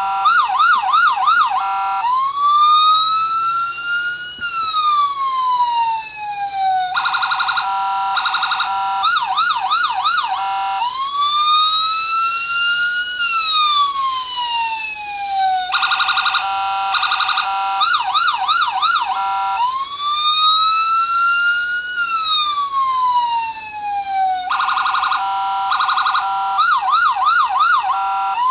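Electronic police siren from the circuit board of a custom-built Dodge Charger LAPD police car model, cycling through its patterns: a choppy stepped tone, a quick yelp, then a slow wail that rises and falls. The cycle repeats about every nine seconds, three times over.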